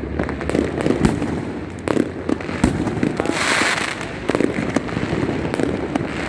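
A dense barrage of fireworks and firecrackers going off near and far, with sharp bangs in quick succession and a hissing burst a little past the middle.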